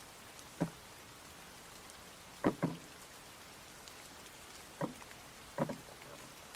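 Steady rain falling, with four dull knocks at irregular intervals, two of them doubled, standing out above the patter.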